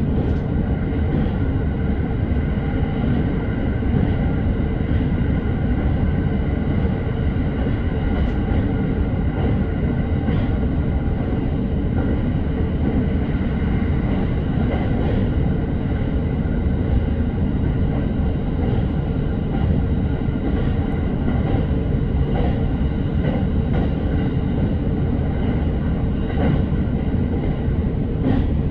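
Electric commuter train running between stations, heard inside the passenger car: a steady low rumble of wheels on the track with a steady motor whine and a few faint rail-joint clicks.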